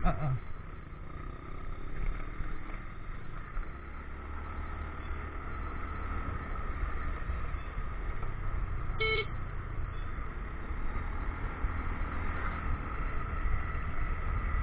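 Motorcycle riding along a road: a steady engine and road rumble, with a faint constant whine. A brief high-pitched sound comes about nine seconds in.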